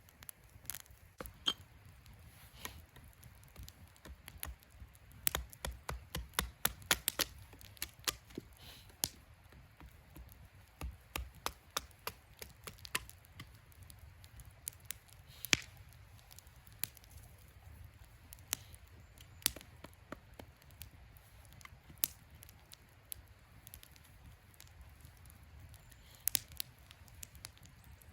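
Wood fire crackling: sharp, irregular pops and snaps, with a quick run of them about five to eight seconds in.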